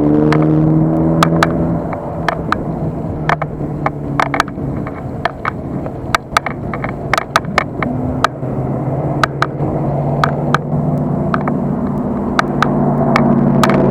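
Riding noise picked up by a bicycle-mounted action camera: steady wind and road rumble, with frequent sharp clicks and rattles as the bike goes over bumps. A steady humming tone runs through the first couple of seconds and comes back near the end.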